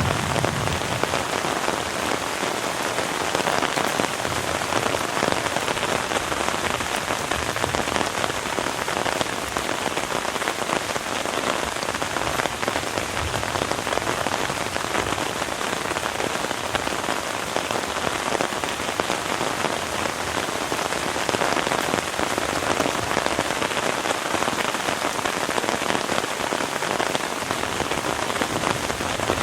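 Heavy rain falling steadily: a dense, even patter of many drops with no let-up.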